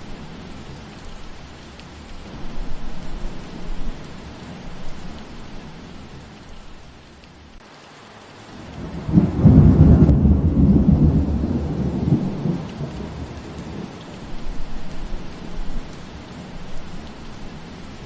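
Steady rain falling, with a low roll of thunder that swells about halfway through, rumbles for three or four seconds, then fades back under the rain.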